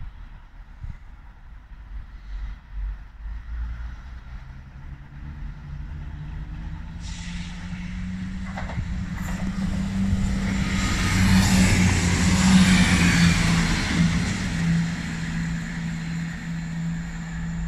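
Diesel passenger train approaching and running into the station. The engine drone builds with wheel and rail noise, is loudest about twelve seconds in, then eases a little as it slows. A thin high whine is heard from about seven seconds in.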